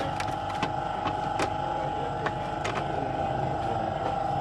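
A steady mechanical hum with a high, even tone over a low rumble, and a few sharp metallic clicks at irregular moments.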